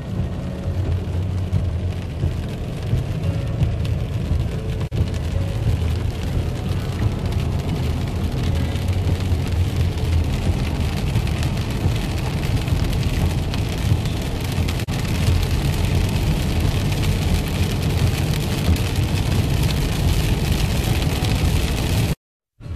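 Heavy rain pouring down: a steady hiss over a low rumble, the hiss growing stronger in the second half.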